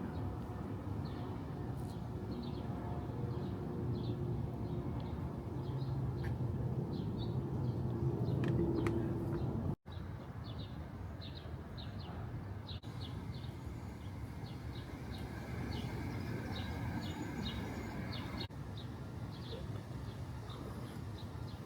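Birds chirping in short, repeated calls over a steady low rumble of outdoor background noise. The sound breaks off abruptly about halfway through and changes slightly a couple of times, as at edit cuts.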